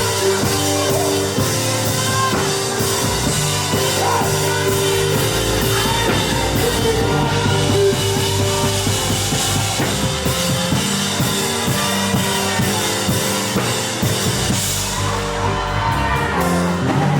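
Live worship band music: a drum kit keeping a steady beat over bass and held chords.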